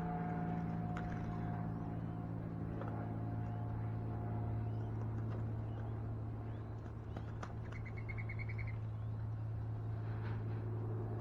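Steady low machine hum, with faint scattered bird chirps over it and a short, rapid trill of high notes about eight seconds in.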